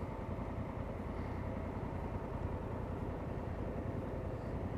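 Motorcycle engine running steadily while riding, with a continuous low rumble and road noise.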